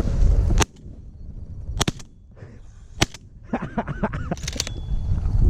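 Shotgun shots at incoming pigeons: a handful of sharp cracks spaced about a second apart. A brief wavering call comes between the later shots.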